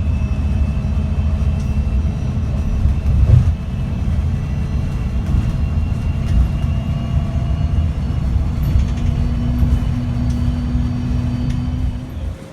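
Steady low rumble of a vehicle, with a faint steady hum entering near the end before the sound cuts off suddenly.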